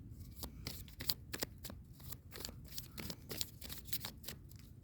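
Dixit cards being shuffled and handled: a run of irregular soft clicks and flicks of card stock.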